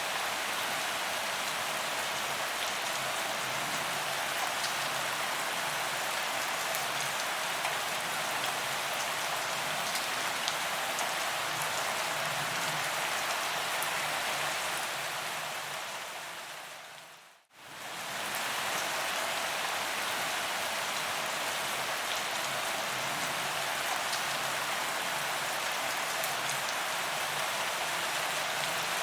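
Heavy rain falling steadily on a paved promenade, a dense even hiss of drops. About two-thirds of the way through, the sound fades down over a couple of seconds to a brief silence and then comes straight back.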